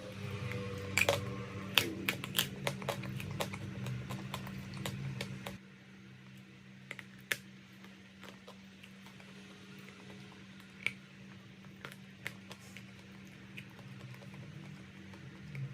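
Crunchy chalk crunching and crackling in irregular sharp clicks, densest and loudest in the first few seconds, then sparser. A low steady hum runs underneath and cuts off about five and a half seconds in.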